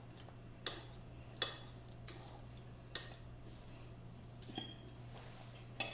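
Eating sounds at the table: about six short, sharp clicks and taps at irregular intervals, over a low steady hum.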